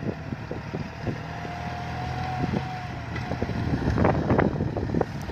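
John Deere utility tractor's diesel engine running steadily under load as it pulls a six-disc plough in fourth gear, with a thin steady whine over the engine note. Rough crackling noises come in near the end.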